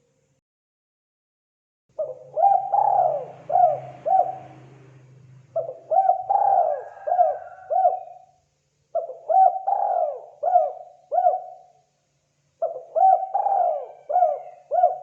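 Spotted dove (tekukur) cooing, after about two seconds of silence. It gives four calls in a row, each a short string of rhythmic coo notes.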